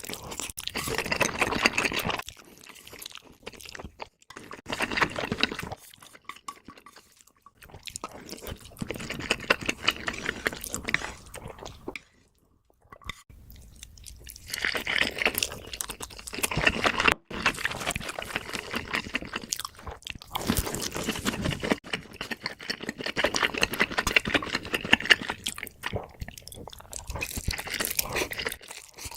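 Close-miked chewing and crunching of food, in several stretches of crackly bites broken by short pauses.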